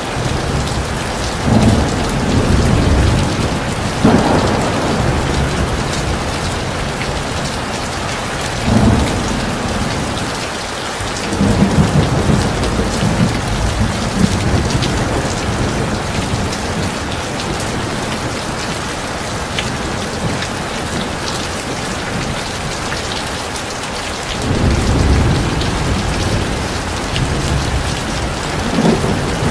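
Heavy rain falling steadily, a dense even hiss, with low rolls of thunder swelling and fading several times.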